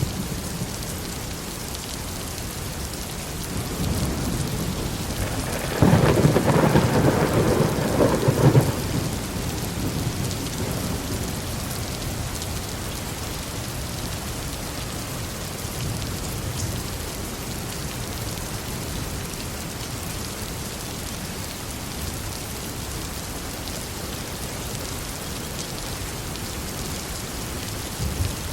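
Heavy rain falling steadily on a forest, with a sharp clap of thunder about six seconds in that rumbles for about three seconds; softer distant rumbles come and go later.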